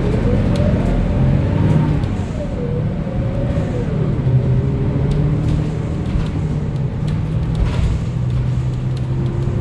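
2025 Gillig BRT 40-foot bus's CNG engine and drivetrain heard from inside the bus: a whine climbs in pitch as the bus pulls away and accelerates, then drops off about four seconds in, leaving a steady low engine drone.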